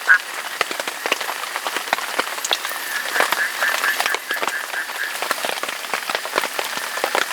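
Steady rain with many individual drops pattering close by. A few seconds in, a faint repeating animal call joins briefly, about five quick pulses a second.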